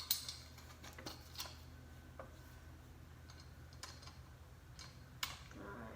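Scattered light clicks and taps, about one every second, from handling ceiling fan blades and their mounting screws, over a faint steady low hum.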